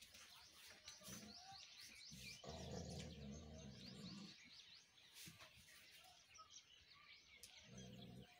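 Faint, busy chirping of small birds, many short quick calls one after another. A low sound lasting about two seconds comes in about two and a half seconds in, and again briefly near the end.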